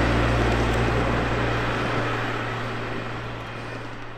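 Passenger train moving away along the track, its rumble fading steadily.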